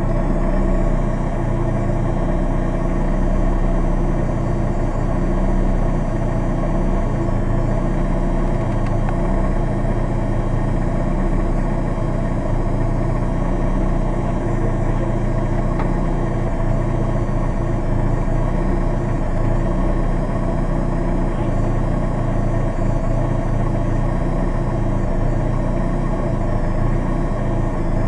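Rally car engine idling steadily, heard from inside the stripped cabin, with no revving.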